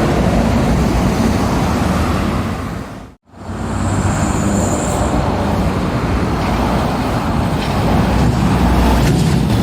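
Heavy lorries and other traffic passing on a road, with steady engine and tyre noise. The sound cuts out briefly about three seconds in, and a short high whine follows about a second later.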